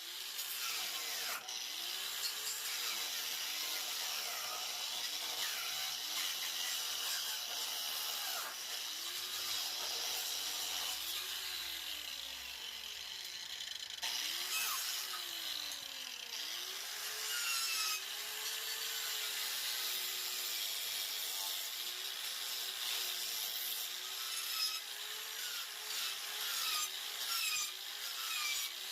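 Angle grinder fitted with a 4-inch Warrior chainsaw-chain wood carving disc cutting into wood. The motor's whine dips and comes back up again and again as the chain bites and is eased off, over a rough rasping of the chain tearing wood.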